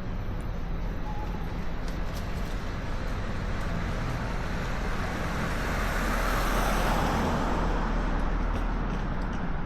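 Road traffic noise: a steady rumble and tyre rush as a vehicle passes close by, swelling to its loudest about two-thirds of the way through and then fading.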